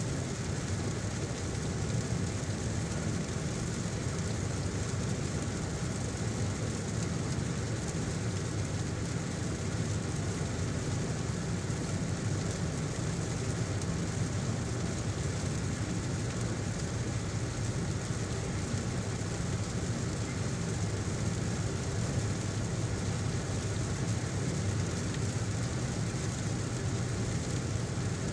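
Car driving in heavy rain: a steady low drone of engine and tyres under an even hiss of rain.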